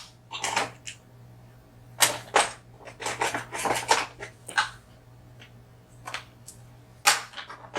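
Small metal tools clicking and tapping against a dimple lock cylinder in irregular clusters, as its crimped outer sleeve is worked loose.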